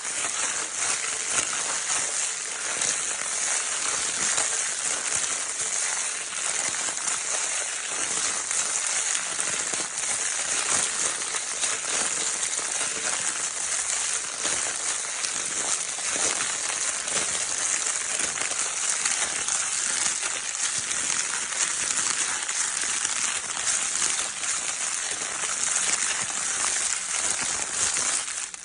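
Baby crinkle-paper toy being crumpled and rustled without pause: a steady crackling made of many small sharp crackles.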